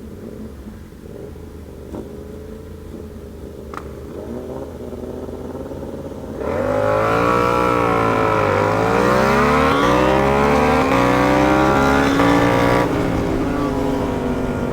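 Sportbike engine (the rider's Yamaha R7 parallel twin) going from a steady cruise to full throttle about six seconds in, climbing in pitch through several quick upshifts in a drag race, with wind rush over the helmet camera. It eases off near the end.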